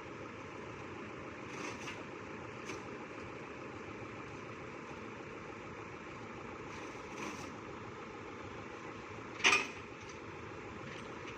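Truck engine running steadily, with a few faint knocks and one sharp metallic clank about nine and a half seconds in.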